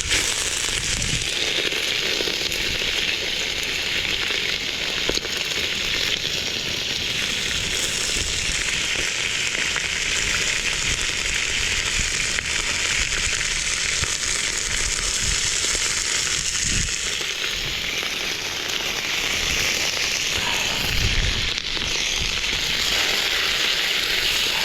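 Frozen meat sizzling and crackling as it is stir-fried in a pan, a steady hiss with a few low knocks from the pan.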